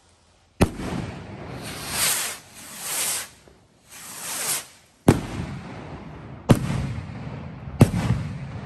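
Consumer fireworks going off. A sharp bang comes first, then three swelling whooshes about a second apart, then three loud bangs about a second and a half apart, each trailing off slowly.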